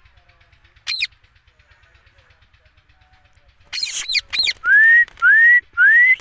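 Green ringneck parrot (rose-ringed parakeet) calling: one short shrill screech about a second in, then two harsh squawks, then three loud rising whistles in quick succession near the end.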